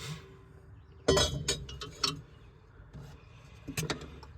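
Metal tools and parts clinking and knocking together, a quick cluster of sharp clinks about a second in and another near the end, during work on a crawler loader's transmission filter.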